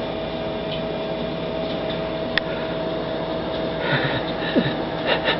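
Steady mechanical hum with a faint constant tone, broken by a single sharp click about two and a half seconds in.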